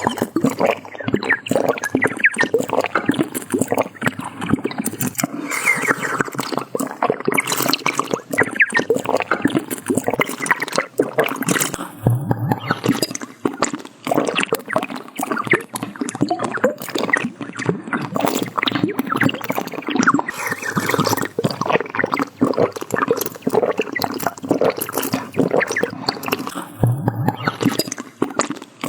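Drinking from a bottle: liquid gurgling and rapid wet gulping sounds, continuous and dense with small clicks.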